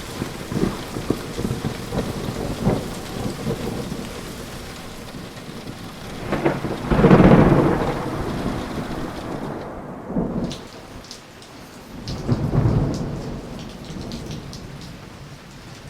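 Rain falling steadily with rolling thunder. The rumbles peak loudest about seven seconds in and again around twelve seconds. In the second half the rain thins to a lighter patter of separate drops.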